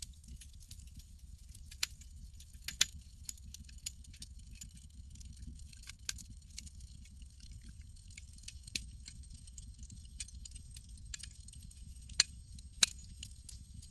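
Campfire crackling: irregular sharp pops and snaps of burning wood, a few much louder ones, over a steady low rumble.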